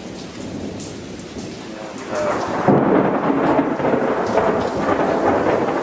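Thunder rumbling over steady rain; the rumble swells about two seconds in and stays loud.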